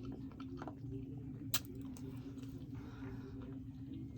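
Soft, squishy chewing of a mouthful of food, with one sharp click about a second and a half in, over a steady low hum.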